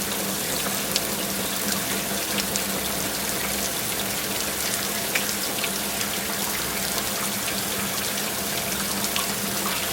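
Steady rush of running water with scattered sharp ticks and a low steady hum underneath.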